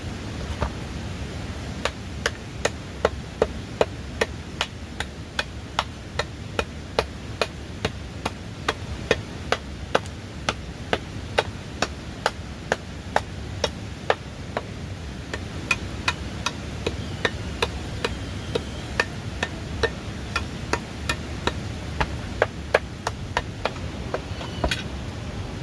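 A long, steady series of sharp strikes from a hand tool chopping or hammering, about two blows a second, over a steady low background noise.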